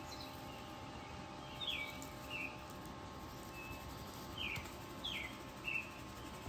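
A bird calling a few times: short chirps that slide downward, each pair followed by a brief lower note, over a faint steady hum.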